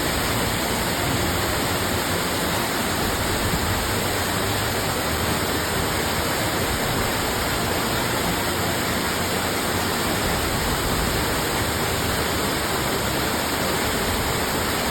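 Waterfall rushing steadily: an even, unbroken noise of falling water with no change through the stretch.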